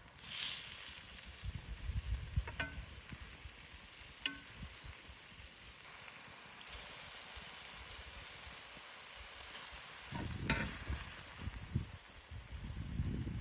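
Beef short ribs sizzling over a wood stove. The hiss grows louder about six seconds in, with a few sharp clicks and some low bumps.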